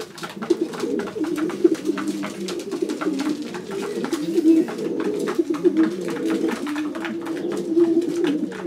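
Racing pigeon cocks cooing continuously and overlapping in a loft, with many short sharp clicks and taps among the coos.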